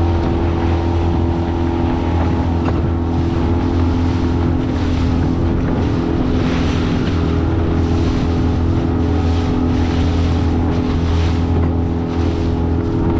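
Honda BF20 four-stroke outboard running steadily at speed, driving an inflatable boat through the water, with water rush and wind noise on the microphone swelling now and then.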